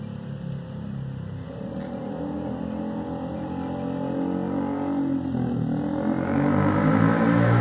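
A motor vehicle's engine running, growing louder toward the end.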